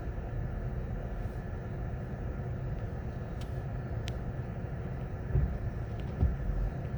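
High wind buffeting a car, heard from inside the cabin as a steady low rumble, with a few light clicks and two short thumps near the end.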